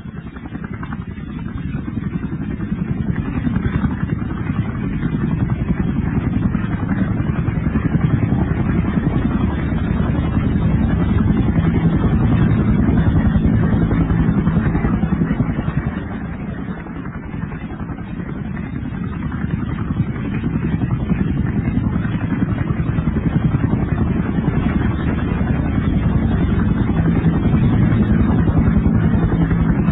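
A steady engine drone with a fine, rapid pulsing, loudest in its low range. It swells, dips about halfway through, then swells again. The sound is cut off above the upper treble, as on AM radio.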